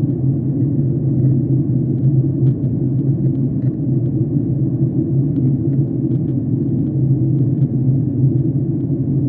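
Steady low roar of a jet airliner's engines and airflow heard inside the passenger cabin in flight, with a few faint ticks.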